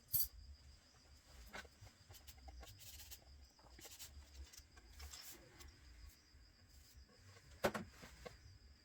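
Faint steady trill of a cricket in the background, with a few sharp clicks and taps, the loudest just after the start and another near the end.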